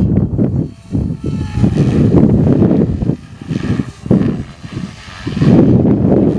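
Strong wind buffeting the microphone in uneven, rumbling surges. Under it is the faint motor whine and rotor noise of an electric MSH Protos RC helicopter flying 3D, with a hiss of rotor noise swelling for a couple of seconds midway.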